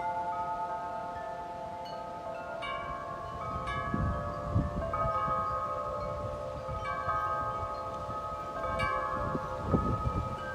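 Wind chimes ringing in strong gusty wind, tubes struck again and again and their tones overlapping and sustaining. Gusts of wind buffet the microphone as low rumbles about four seconds in and near the end.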